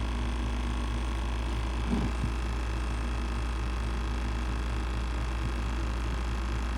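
A steady low hum, with a brief knock about two seconds in.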